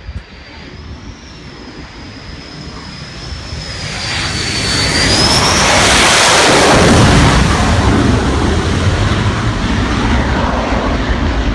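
Jet aircraft passing close by: a thin high engine whine at first, then a rushing jet noise that builds to full loudness about six seconds in and stays loud.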